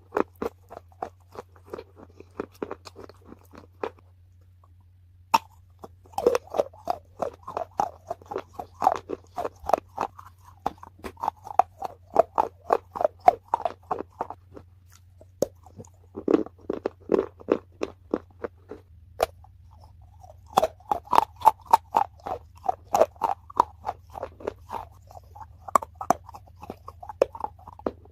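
Close-miked chewing of crunchy food: rapid crisp crunches, several a second, in bouts of a few seconds with short pauses between them.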